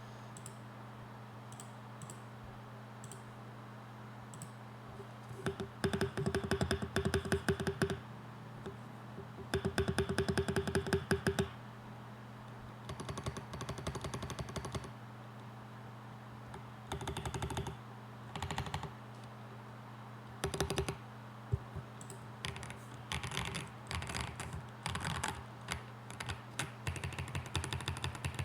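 CMK75 mechanical keyboard with stock Glacier Pink linear switches and FSA-profile keycaps being typed on: a few scattered single key presses at first, then bursts of fast keystrokes, with steadier typing near the end. A steady low hum runs underneath.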